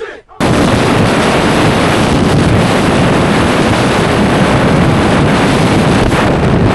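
Heavy, steady wind rush buffeting the microphone of a motorcycle rider at speed. It cuts in abruptly about half a second in and covers any engine sound.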